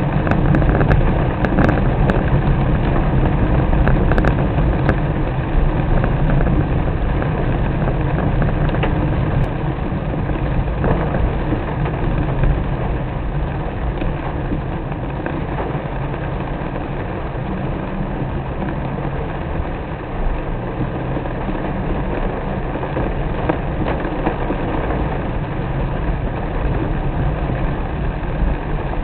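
Car driving in the rain: a steady low rumble of engine and road noise mixed with the hiss of rain, easing slightly about ten seconds in.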